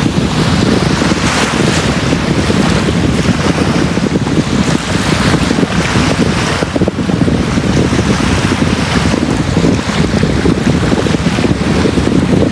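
Sea waves breaking and washing on a beach, a continuous loud rush of surf that swells and eases every second or two, with a heavy low rumble that sounds like wind buffeting the microphone.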